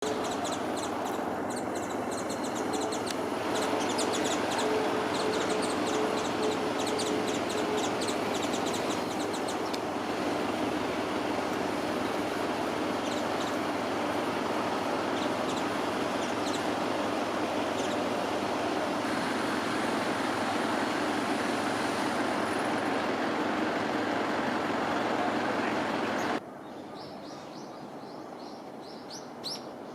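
Japanese white-eye giving short, high, thin chirps in quick runs, heard over a steady rumble of background noise. About 26 seconds in the rumble drops off abruptly, and a few more chirps follow.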